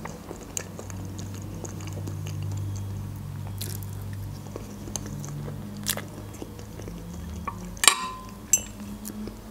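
Close-up mouth sounds of chewing and eating soft meringue roulade, with small wet clicks. About 8 s in, a sharp clink with a brief ring as the metal fork is set down on the ceramic plate.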